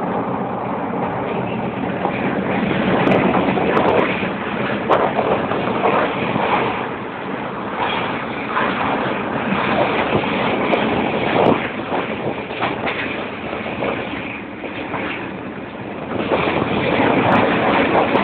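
Passenger train running at speed, heard from inside a carriage: a steady rumble and rush of noise that swells and eases, with irregular clacks and knocks from the wheels on the track.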